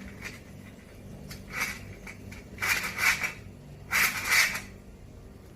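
Three short bursts of scraping, clattering handling noise over a low steady hum.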